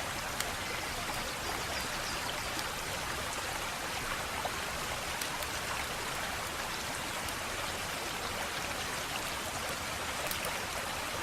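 Wood fire crackling steadily, a dense bed of crackle with scattered sharp pops.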